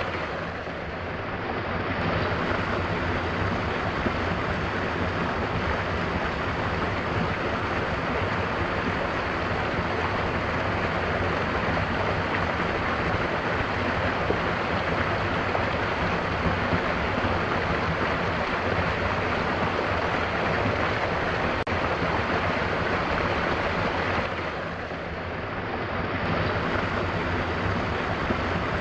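Mountain waterfall rushing steadily. The water noise dips briefly in level twice, just after the start and again near the end.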